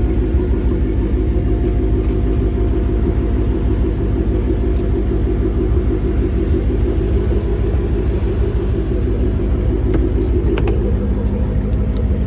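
Dodge SRT 392's 6.4-litre HEMI V8 running steadily with a deep, even rumble.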